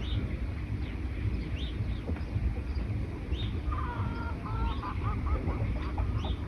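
Wild birds calling in a forest: a short high chirp repeating every second or two, joined from about four seconds in by a harsher, lower chattering call, over a steady low rumble.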